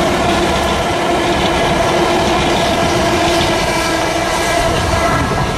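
Southern Class 377 Electrostar electric multiple unit passing close by, a steady loud rumble of wheels on the track with steady tones running through it; the lower tone fades out near the end.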